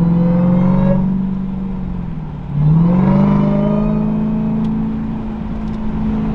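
Supercharged 6.2-litre Hemi V8 of a 2023 Dodge Durango SRT Hellcat, running with its mufflers cut off, under acceleration. The engine note eases off and dips for a moment, then about two and a half seconds in jumps sharply up in pitch and loudness as it is pushed hard, with a thin whine riding above it.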